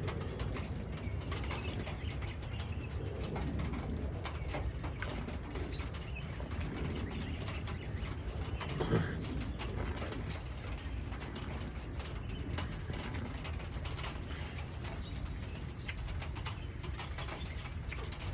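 Outdoor ambience: birds calling over a steady low rumble, with scattered light clicks throughout.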